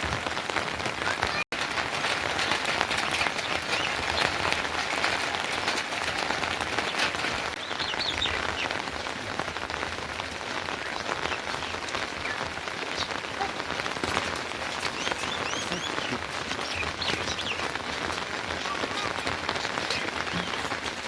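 Steady rain falling on surfaces, a dense even hiss, with a few short high chirps now and then. The sound cuts out for an instant about a second and a half in.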